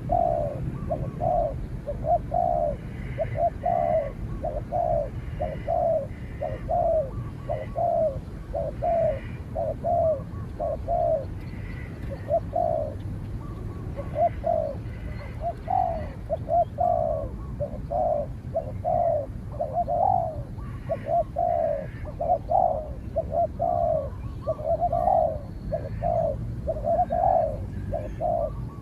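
Spotted dove cooing: a long run of short low coos, about two a second, with hardly a break, and faint higher bird chirps behind.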